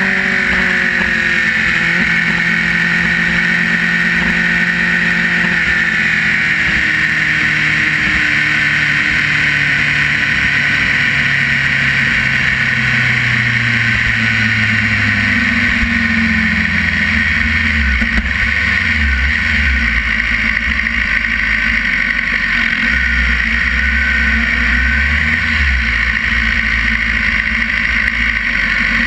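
Sport motorcycle engine running as the bike rolls slowly, its note falling steadily through the first half and settling into a low, uneven burble, under a steady hiss.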